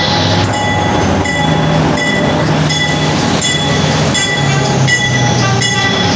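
Subway work train, a locomotive hauling a de-icer car, rolling slowly past the platform: a steady low engine hum and rumble, with on-and-off high squealing tones from the wheels and frequent clicks over the rail joints.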